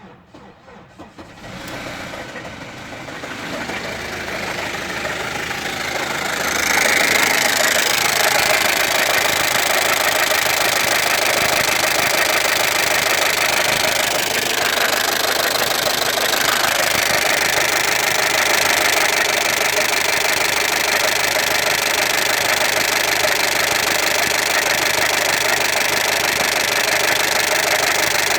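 1.8T AWM turbocharged four-cylinder engine running with a knock from the top end, in the cylinder head. It grows louder over the first six seconds, then runs steadily.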